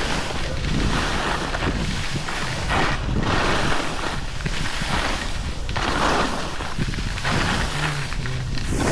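Edges carving on packed snow during a downhill run, a rhythmic swish about once a second, over steady wind rumble on the microphone.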